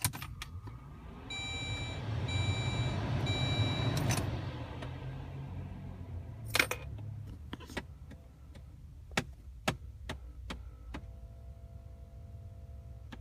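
Inside a car, a chime beeps three times over a rush of fan or engine noise, then a run of irregular sharp clicks and pops, one louder than the rest, from the heating and AC system: the clicking that comes on for a few seconds when the heat or AC is switched on or the car is turned off.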